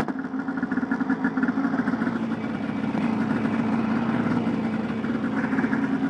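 2003 Polaris RMK 700 snowmobile's two-stroke twin idling steadily on an SLP tuned pipe with the muffler removed. It is not much louder than stock.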